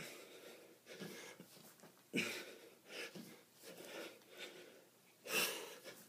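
A man breathing hard and wheezing, out of breath from a kettlebell workout. Sharp exhalations come about once a second, with louder ones about two seconds in and again about five seconds in.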